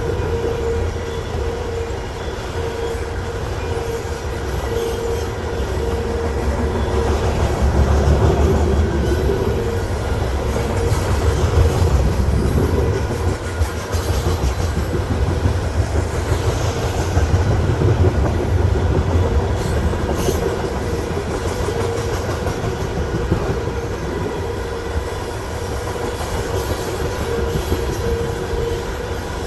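Freight cars of a long mixed manifest train rolling past, a continuous rumble of steel wheels on rail with a thin tone that comes and goes throughout.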